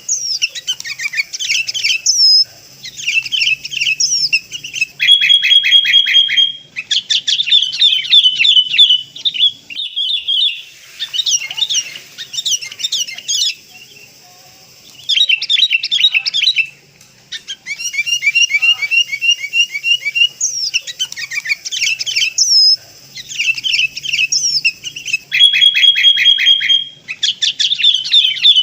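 Sooty-headed bulbuls calling in an excited, noisy chorus: rapid chattering notes, short whistled notes and quick gliding phrases, broken by brief pauses. The recording is played on a loop as a lure call.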